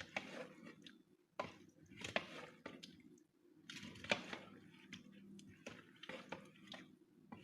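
Chicken salad being mixed in a bowl with a utensil: faint wet squishing with light, irregular taps and scrapes.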